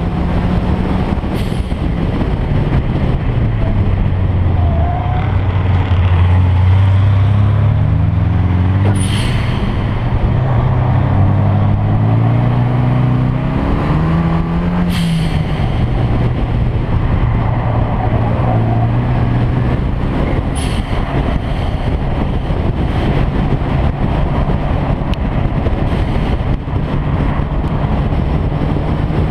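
Car engines with sports exhausts running, the pitch stepping down then rising and falling again in a few revs over the middle before settling back. Four short sharp cracks are spread through.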